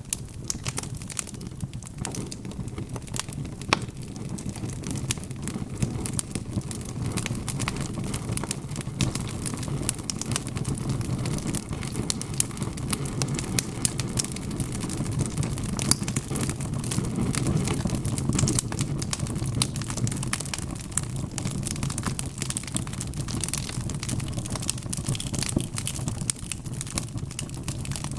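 Wood fire in a fireplace crackling and popping steadily, with many sharp snaps over a low, even rumble of burning logs.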